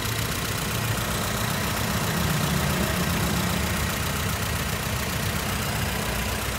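Honda Mobilio's 1.5-litre four-cylinder petrol engine idling steadily, heard up close in the open engine bay.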